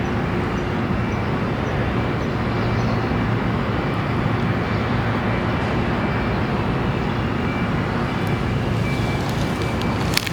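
Steady outdoor background noise, a low rumbling hiss, with one sharp click near the end.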